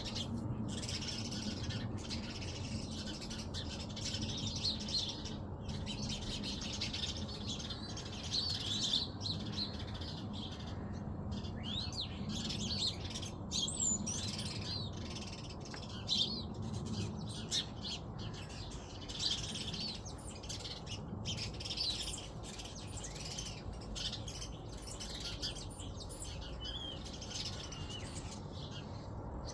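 Small birds chirping in quick, overlapping calls, over a steady low rumble.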